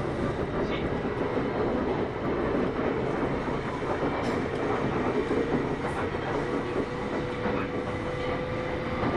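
Kintetsu 8810 series electric train running at speed, heard from inside the car: steady rolling noise of wheels on rail with a faint constant hum. A few short clicks from the wheels crossing rail joints come through now and then.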